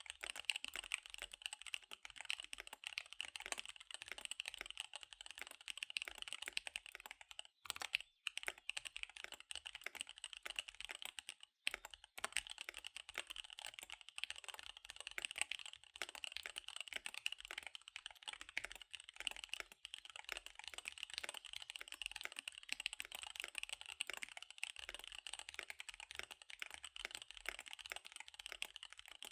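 Fast typing on a KBD75 V3 mechanical keyboard with SP-Star Dark Magic Girl tactile switches and DSA keycaps: a rapid, dense run of keystroke clicks, with two brief pauses about eight and twelve seconds in.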